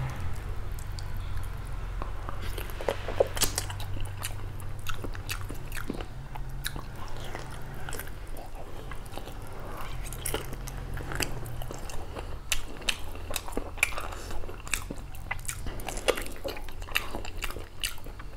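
Close-up chewing and biting of beef curry and rice eaten by hand, with wet mouth clicks and smacks. A steady low hum runs underneath and weakens after about twelve seconds.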